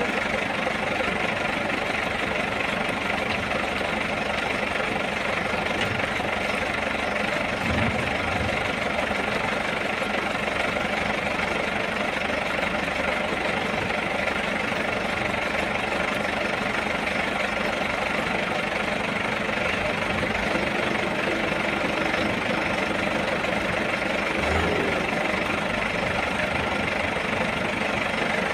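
Diesel truck engine running steadily, with a couple of brief dull thumps.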